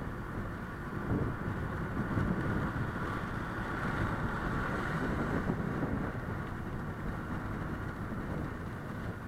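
Honda Click 125i scooter's single-cylinder engine running while riding, with steady wind rushing over the microphone.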